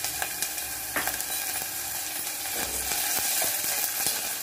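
Onions and ginger-garlic paste sizzling as they fry in hot oil in a steel pot, with a steel ladle scraping and clicking against the pot now and then as it stirs.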